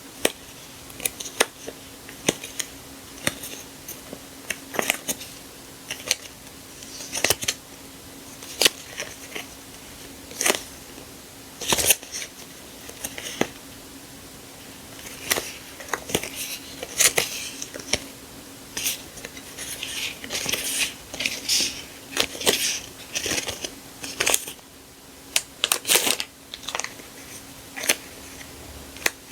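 Sticker packets and paper being handled and unwrapped: irregular sharp clicks and short crinkling rustles of paper and plastic packaging, with a faint steady hum underneath.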